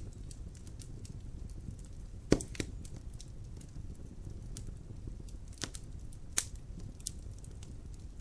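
Wood fire burning in a fireplace, crackling over a low steady rumble, with scattered sharp pops; the loudest pop comes a little over two seconds in.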